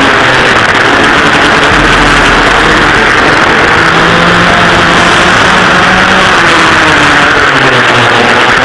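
Engines of vintage dual rear engine racing karts running hard and continuously, their pitch slowly rising and falling with the revs.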